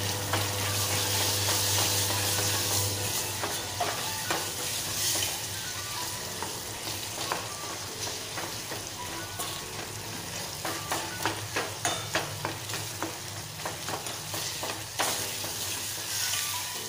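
Chopped onion and tomato sizzling in oil in a small stainless steel pan, with a steel ladle stirring and scraping against the pan. The ladle's clicks and scrapes come quick and close together through the middle stretch.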